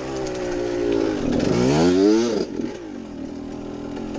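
Suzuki RM two-stroke dirt bike engine, running through a muffler taken off an Apollo four-stroke pit bike. About halfway through it revs up sharply, then the throttle is let off and it drops back to a lower steady run.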